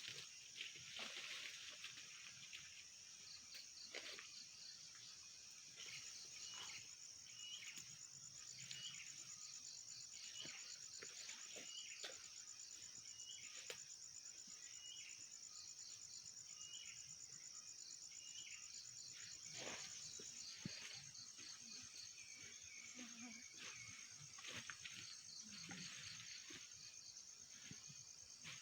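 Faint, steady high-pitched trilling of insects in the open. For a stretch a short chirp repeats about once a second, and there are a few scattered light clicks and knocks.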